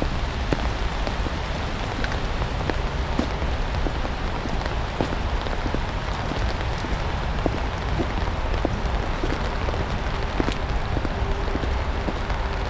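Rain mixed with snow falling: a steady hiss of precipitation with scattered ticks of individual drops landing.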